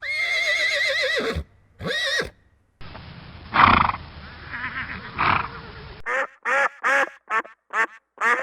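A horse whinnying: one long, wavering neigh that drops at the end, then a shorter second neigh. After a different, noisier stretch with two louder animal calls, a duck starts quacking about six seconds in, around six short quacks in quick succession.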